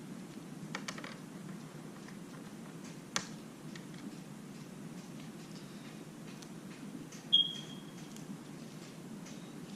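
Faint light clicks and taps of small parts and tools being handled during an iPad mini screen repair, over a steady low hum, with one short high-pitched ping about seven seconds in.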